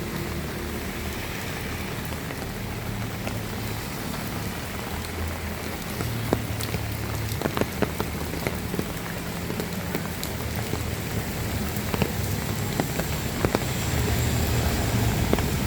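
Heavy rain falling steadily, with many sharp ticks of large drops striking close by, more of them from about six seconds in.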